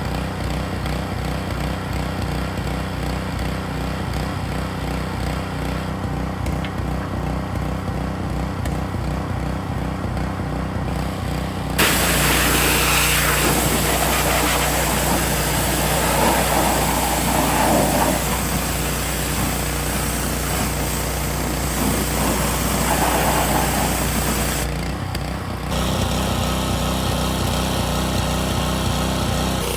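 Gas-engine pressure washer running steadily. About twelve seconds in the spray wand opens, adding a loud hiss of water over the engine for about thirteen seconds. After a brief drop the hiss carries on more softly.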